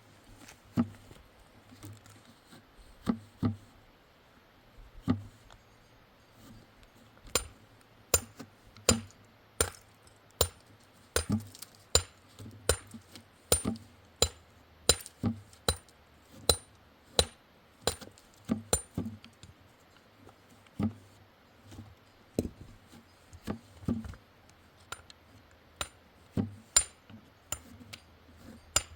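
A long series of sharp knocks or clinks, irregular, mostly one or two a second, with brief pauses.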